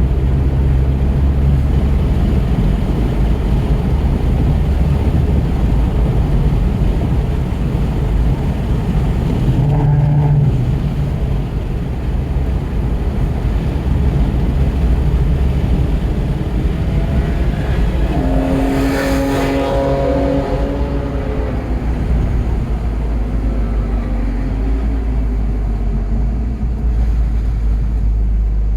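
Onboard sound of a 2017 Volkswagen GTI's turbocharged 2.0-litre four-cylinder engine running hard on track, under a constant rumble of wind and tyre noise. About two-thirds of the way through, a brief whine rises and falls in pitch.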